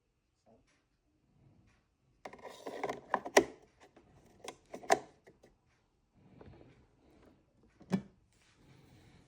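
Handling noises: a cluster of clicks, knocks and rubbing starting a little over two seconds in, with two sharp clicks, then a single knock near the end.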